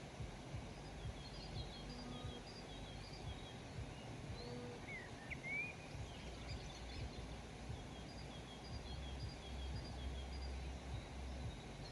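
Birds calling in rural surroundings: a series of short, high chirps repeating throughout, and a rising whistled call about five seconds in. Underneath runs a steady low rumble with occasional soft knocks.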